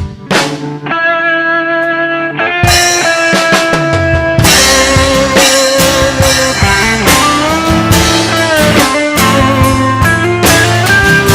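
Live band playing an instrumental break: guitar playing held and bent notes over bass and drum kit. The full band comes in louder about two and a half seconds in.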